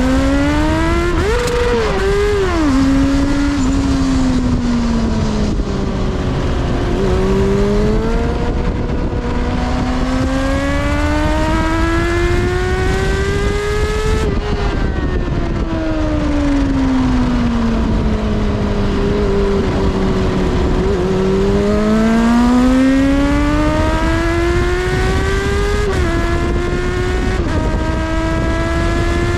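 Kawasaki ZXR400's inline-four engine on track, revving hard: the pitch climbs in long pulls with short drops at gear changes, then falls steadily for several seconds on the slowdown into a corner before climbing again.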